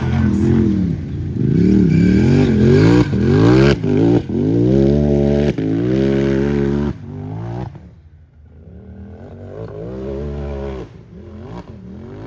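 Unlimited-class UTV engine revving hard on a hill climb, its pitch swooping up and down as the throttle is worked, with brief cuts in between. About seven seconds in it drops away, then keeps revving more faintly.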